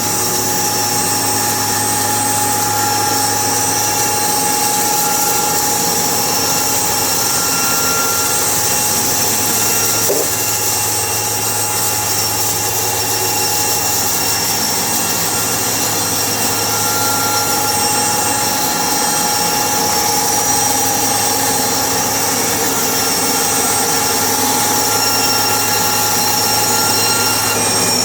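Sawmill machinery running steadily: a constant engine drone with a high whine held at one pitch throughout.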